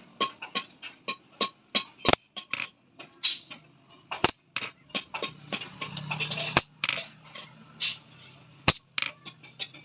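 Irregular sharp taps and clinks of a small hammer on metal, some leaving a brief ring, over a faint low hum.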